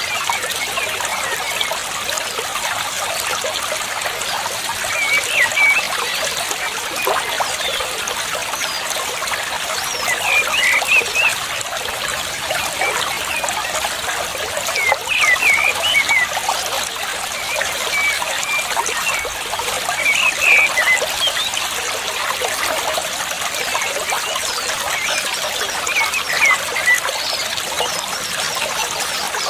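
Water trickling and splashing steadily, with short high bird chirps every few seconds.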